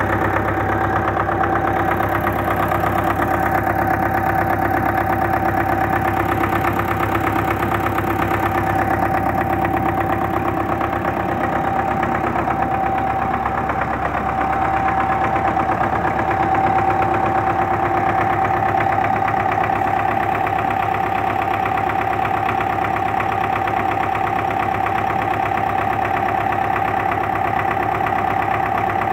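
D-243 four-cylinder diesel engine running steadily just after its fuel injection pump was repaired. The owner suspects the injection timing is set slightly early.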